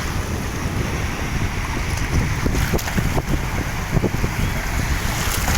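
Steady wind and water noise with a heavy low rumble, typical of wind buffeting the microphone.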